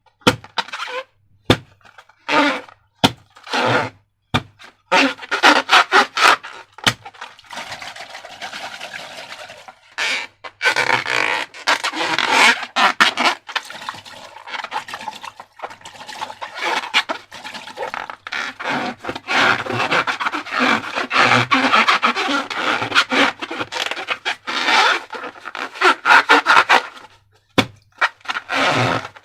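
Sticky slime being squeezed and worked by hand: dense, irregular wet crackling and squelching with many small pops, easing to a softer, steadier squish for a few seconds and pausing briefly near the end.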